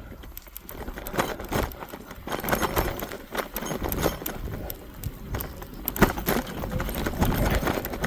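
Electric bike being ridden off-road through snow: tyre noise with many irregular knocks and rattles from the bike going over rough ground.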